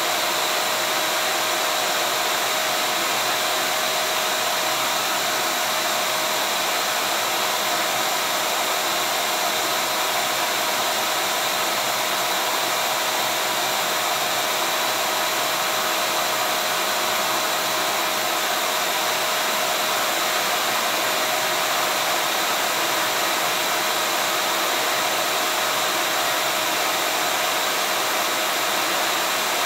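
Vacuum cleaner running steadily: an even rushing hiss with a steady whine held under it, unchanging throughout.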